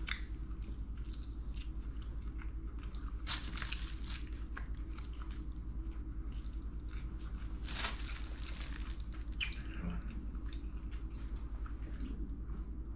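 Chewing and biting on crunchy food, with a few sharp crisp bites spaced several seconds apart, over a steady low hum.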